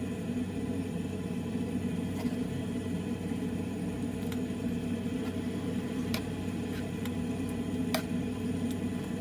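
A steady low hum, likely a kitchen appliance, runs throughout, with four light clicks spaced about two seconds apart, the clink of a serving spoon on a pot as fish curry is served.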